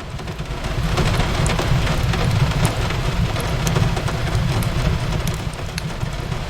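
Steady rain on a window mixed with a crackling fireplace: an even hiss of rain over a low rumble, with scattered sharp crackles of burning wood.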